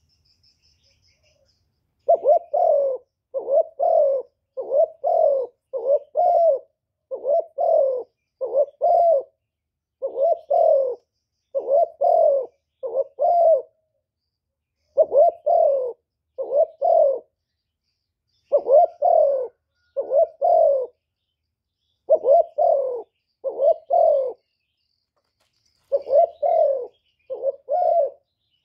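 Spotted dove cooing repeatedly: short low coos in runs of two to four notes with brief pauses between runs, beginning about two seconds in. It is the provoking 'gù kích' cooing of a decoy bird, used to lure wild spotted doves.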